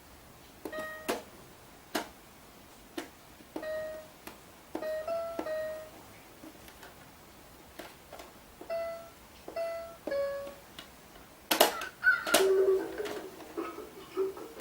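Battery-powered toy bird sounding short electronic chirp notes one after another, with sharp clicks between them and a louder clatter near the end.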